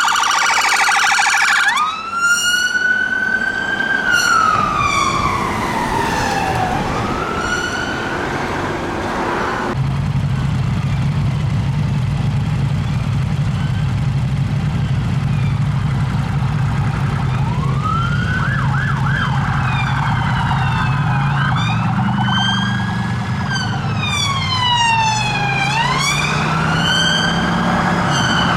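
Police car sirens wailing in slow rising and falling sweeps, with a fast warble at the very start. Several sirens overlap near the end as more than one vehicle passes. A steady low rumble of engines and traffic sets in about ten seconds in.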